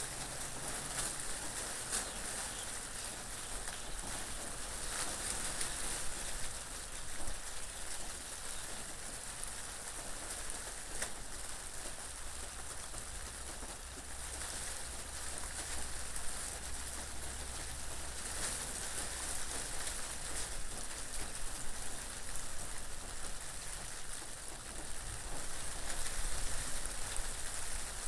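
Steady rain falling, an even hiss with a few sharper drop impacts now and then.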